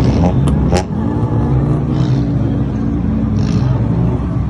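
Car engine with a loud exhaust rumble running and revving lightly, its note wavering up and down. Two sharp clicks come just under a second in.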